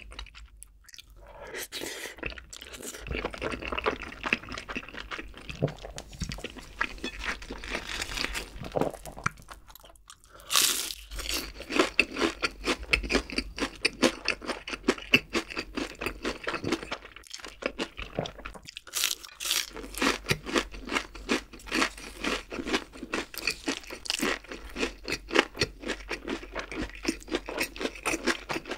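Close-miked eating: a person chewing and crunching food in a dense run of rapid, crisp mouth clicks. There is a short lull about a second in, and the chewing grows louder and faster from about ten seconds in.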